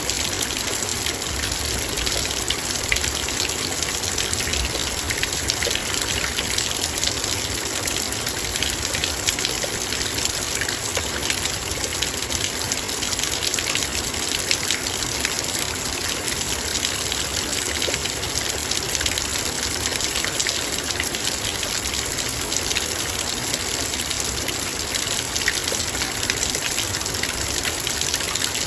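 Heavy rain falling steadily on a metal bowl: a dense patter of drops ticking on the metal over a constant hiss of rain.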